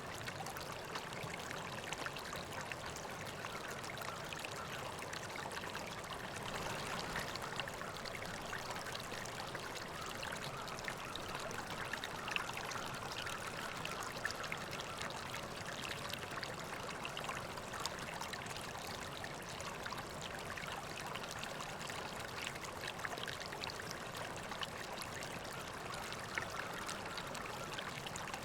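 River water flowing steadily, a continuous rush with small trickles and splashes.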